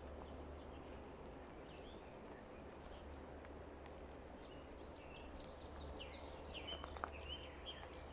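A songbird singing a fast run of short falling chirps for several seconds near the middle and end, over faint steady forest ambience with a low hum.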